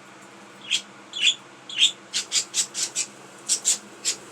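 Pet budgerigars calling: a string of short, high chirps, coming faster in a quick run midway.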